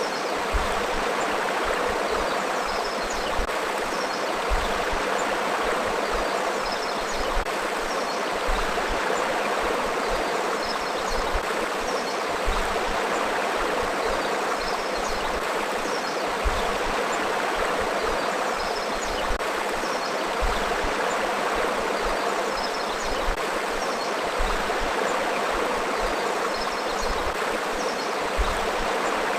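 River water flowing and rushing over rocks in a steady, even stream, with faint high chirps now and then.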